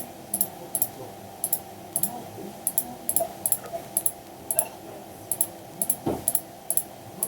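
Irregular clicking of a computer mouse and keyboard, about two clicks a second, many of them in quick pairs, over a faint steady hum.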